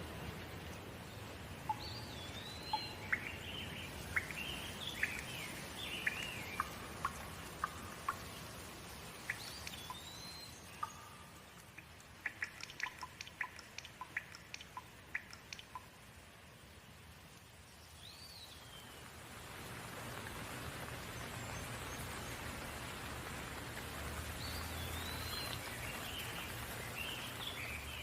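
Steady rain falling, with birds chirping and singing over it in short phrases; the rain grows louder in the second half. Near the middle comes a quick run of sharp ticks.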